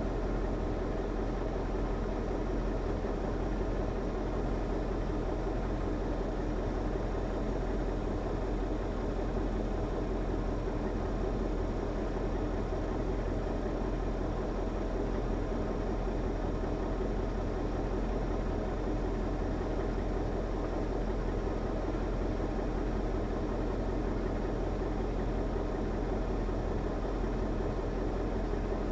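KAMAZ timber truck's diesel engine running steadily at a constant low speed, with no revving.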